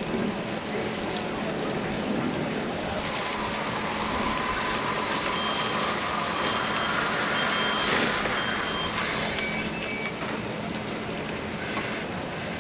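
A vehicle's reversing alarm sounds a regular series of short high beeps about halfway through, with a couple of lower beeps after it, over a steady rushing noise.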